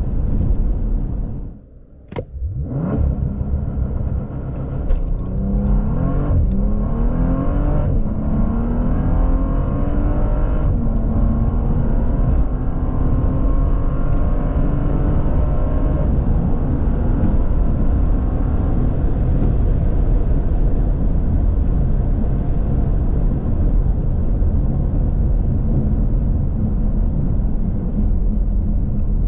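Bentley Flying Spur Speed's 6.0-litre twin-turbo W12 accelerating hard after a brief lull and a click about two seconds in. The pitch climbs and drops back at several quick dual-clutch upshifts, then settles into a steady drone at speed.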